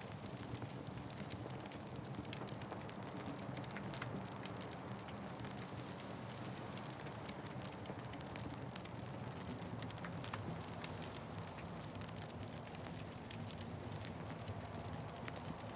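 Wood fire crackling, with many small sharp pops scattered over a steady low rumble.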